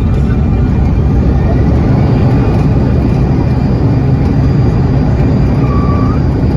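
Jet airliner engines heard inside the passenger cabin: a loud, steady low rumble with a thin steady whine over it, and a short higher tone briefly near the end.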